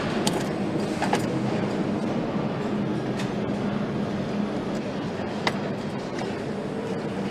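Assembly-line factory noise: a steady machinery hum with a few sharp, separate clicks or clanks of tools and parts.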